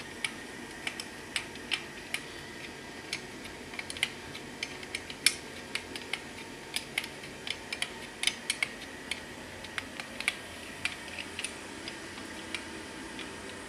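Hand tools clicking and tapping on metal, with sharp irregular clicks coming two to four times a second.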